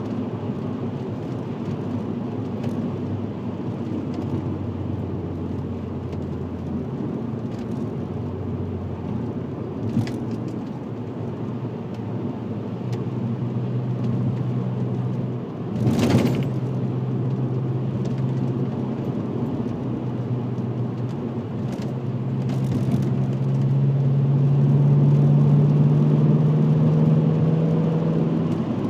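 VW Passat W8's 4.0-litre W8 engine running through a custom stainless exhaust with twin rear mufflers, at steady cruise. Its note steps higher about halfway through, with a brief knock just after. It then climbs and grows louder as the car accelerates near the end.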